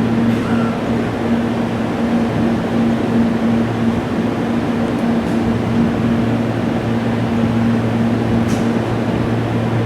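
A steady mechanical hum with two low droning tones under even noise, holding the same level throughout.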